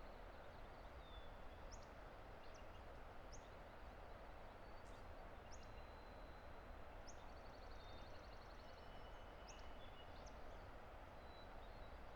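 A distant river roaring as a steady rush, with small birds calling over it: short sharp upward notes every second or two, a rapid high trill and thin whistles.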